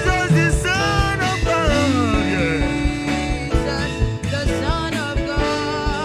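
Gospel worship band music: sustained chords and a steady bass-and-drum beat under a gliding melodic line.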